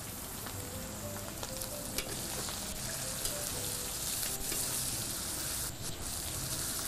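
Pieces of liver sizzling as they fry in hot oil and ghee in a wok over a gas flame, while a spatula stirs them, clicking against the pan now and then.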